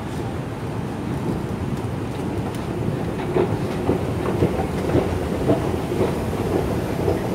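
London Underground train running, a steady rumble heard from inside the carriage, with a rhythmic clack of the wheels about twice a second from about three seconds in.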